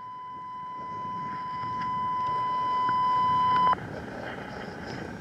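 Fire dispatch radio alert tone: one long steady beep, growing louder, that cuts off suddenly about three and a half seconds in, the signal that a dispatch call for the fire companies is about to follow. Low background rumble after it.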